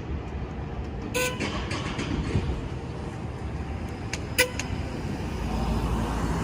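Fire engine's diesel rumbling at low speed, growing louder near the end, with two short horn toots, about a second in and about three seconds later.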